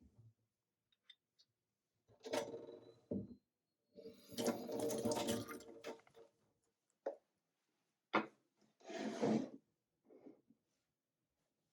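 Handling of coffee-making equipment: a series of short bursts of clattering and rubbing, the longest about two seconds, with a couple of sharp clicks in between.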